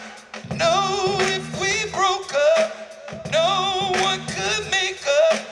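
A woman singing an R&B ballad live, drawn-out wordless vocal runs with heavy vibrato, over instrumental accompaniment with a repeating bass line.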